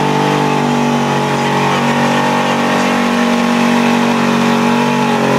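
Chevy pickup truck engine held at high, steady revs during a burnout while the rear tires spin, with a hiss of tire noise over it.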